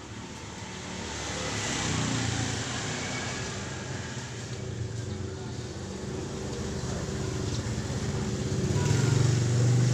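Road traffic going by: motor vehicle engines running past, swelling about two seconds in and again near the end.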